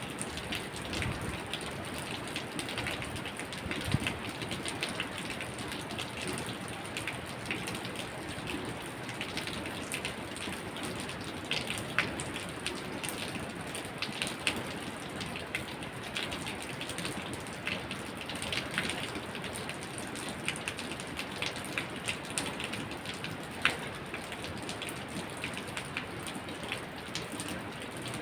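Steady rain falling, with many sharp drops ticking on a surface and a few louder single drips.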